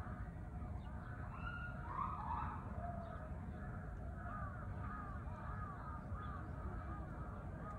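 Birds calling: a brief louder call about two seconds in, then a run of short repeated calls, about two a second, over steady low background noise.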